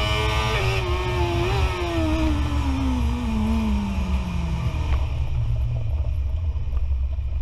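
BMW S1000RR inline-four engine at high revs, its note dropping as the throttle closes and then falling steadily for about four seconds as the bike brakes hard from around 200 km/h, leaving heavy wind rumble. The brakes are fading: the rider says they went spongy and he overran the corner into the gravel.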